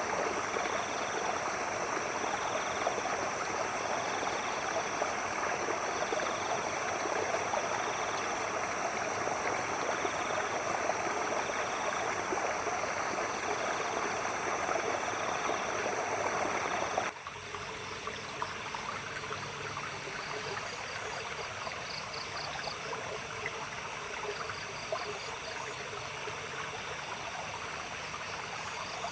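A stream running steadily, with a night animal calling in a regular pulse about once a second. About two-thirds of the way through the sound cuts abruptly to a softer run of water with different short trilling calls.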